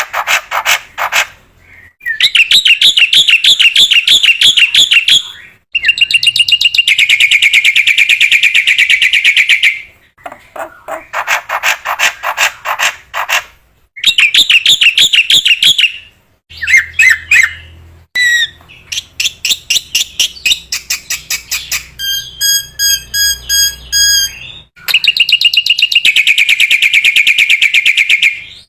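Black-winged myna (jalak putih) singing loudly in phrases of a few seconds each: fast chattering and trilled notes with short pauses between. Near the end comes a run of clear, evenly repeated whistled notes.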